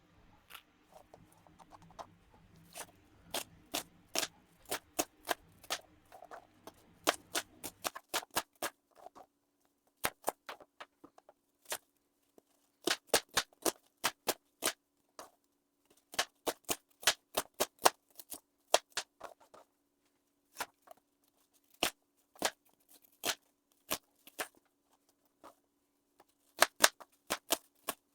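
Bread knife chopping onions on a chopping board: a long run of sharp knocks as the blade hits the board, coming in quick irregular clusters with short gaps between them.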